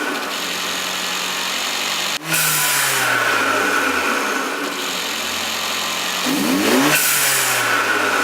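Mercedes CLA 45 AMG's turbocharged 2.0-litre four-cylinder engine revved with the throttle then snapped shut, twice, the aftermarket blow-off valve venting boost with a hiss each time as the revs fall away.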